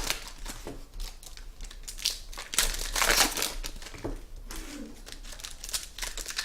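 Trading-card pack wrappers and cards crinkling and rustling as they are handled and opened by hand, in irregular bursts of rustle.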